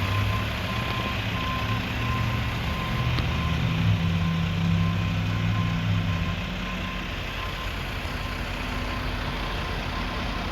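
Mack front-loader garbage truck's reverse alarm beeping over its diesel engine. The engine runs louder for the first six seconds, then drops back to a lower, steady drone.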